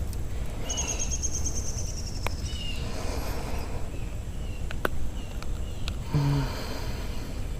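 Steady low wind rumble on the microphone, with birds chirping and a long high trill in the first few seconds. A couple of sharp clicks, and a short grunt about six seconds in.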